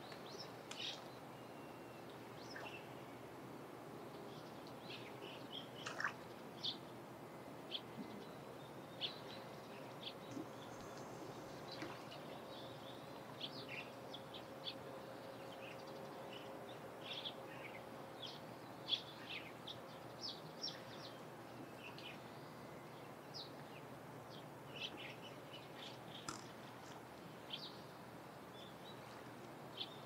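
Small birds chirping: many short, high chirps scattered throughout, over a steady outdoor background hiss, with a faint steady hum through the middle.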